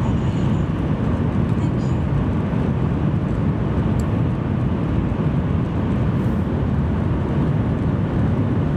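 N700 series Shinkansen running at speed, heard inside the passenger cabin: a steady, deep rumble of wheels, track and air with no change in level.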